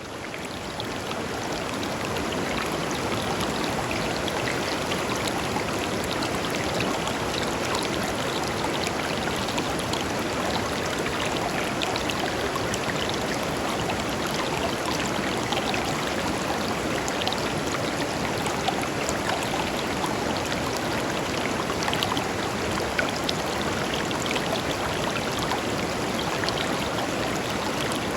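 Shallow river flowing over stones: a steady rush of water with fine splashing and trickling. It fades in over the first two seconds.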